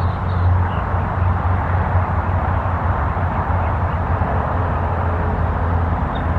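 Steady low rumbling noise with no breaks, and a few faint bird chirps in the first second.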